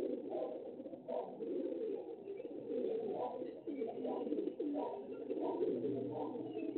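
Birds cooing, several low calls overlapping without a break.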